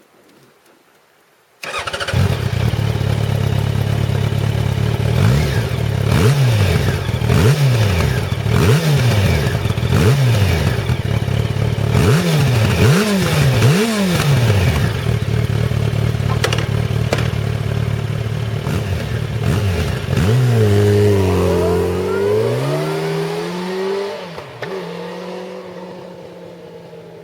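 Yamaha FZ1 Fazer's inline-four engine through its stock silencer. It comes in suddenly about two seconds in, is revved in a string of quick blips, runs more steadily, then its pitch dips and climbs again before the sound fades away near the end.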